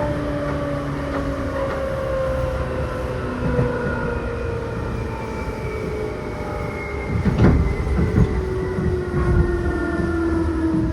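Seibu New 2000 series electric train running, heard from inside the passenger car: steady rumble with a motor and gear whine that slowly falls in pitch as it slows. A clunk of the wheels over a rail joint comes about seven and a half seconds in, followed by a few lighter knocks.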